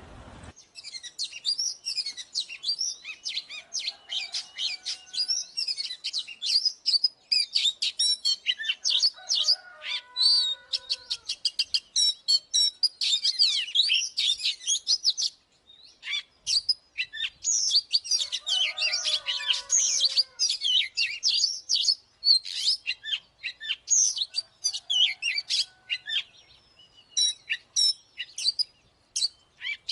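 Oriental magpie-robin singing: a fast, varied stream of clear whistles and harsh chattering notes, in two long bouts with a short pause about halfway through.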